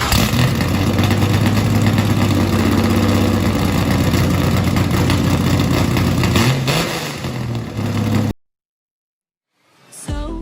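A car engine running at a steady speed, revved once about six and a half seconds in, then cut off abruptly. After a short silence, music begins near the end.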